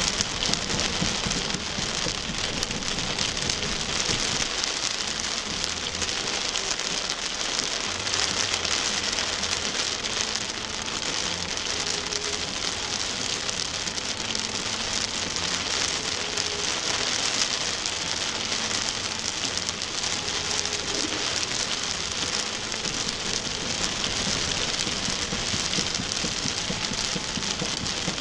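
Rain striking a moving car's windshield, heard from inside the car: a steady, dense hiss.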